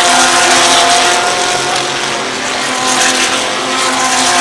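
GT3 race car engines at racing speed passing by, loud near the start and again near the end as cars go past, with a steady engine note in between.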